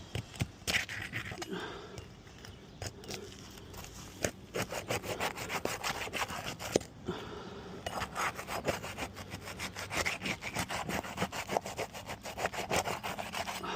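Roof shingles being pried up to break their seal strips: rapid scraping and rasping strokes, with a brief pause about seven seconds in.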